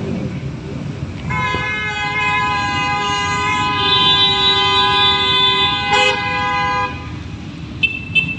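A vehicle horn sounding one long steady blast of about five and a half seconds, over a steady rumble of engines and wind.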